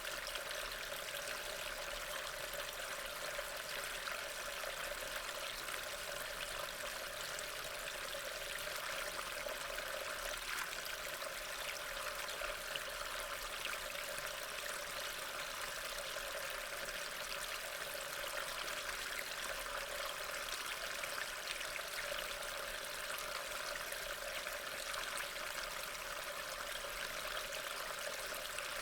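Steady rain falling: an even hiss of many small drops pattering, without a break.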